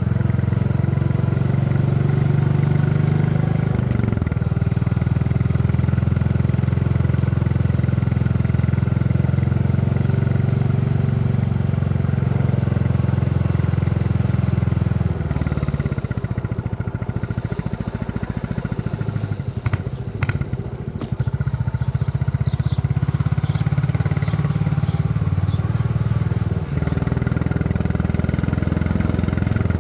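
Royal Enfield Classic 350's single-cylinder engine thumping steadily under way, heard from a backpack-mounted mic. The sound dips briefly about four seconds in and again near the end. Around the middle it drops to slower, quieter separate beats, with a few clicks and rattles.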